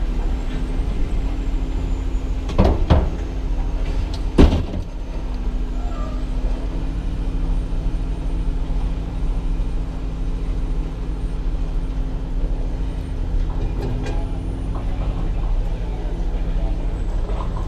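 A vehicle engine running steadily, with a few sharp knocks in the first five seconds and another faint one near the end.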